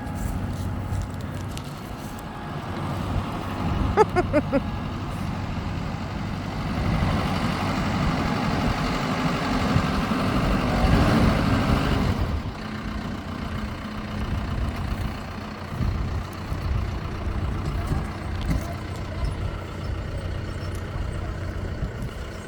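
Heavy vehicle engine running steadily, then louder for several seconds in the middle, as a vehicle stuck in the mud is worked on; a brief pitched sound comes about four seconds in.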